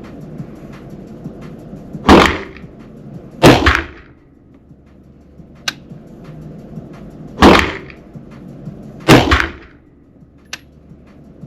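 Four single rifle shots fired at a steady pace, in two pairs about a second and a half apart, each echoing in an indoor range, with a couple of faint sharp clicks between them.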